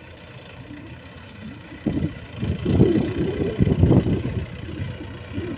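Heavy diesel engine of earth-moving machinery running steadily, then rising into a louder, uneven surge from about two seconds in for a couple of seconds before settling back.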